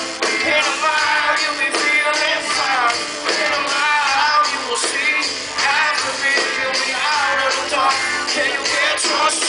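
Live rock band music with no lyrics sung: a full band playing, with steady drum strokes under a wavering melody line.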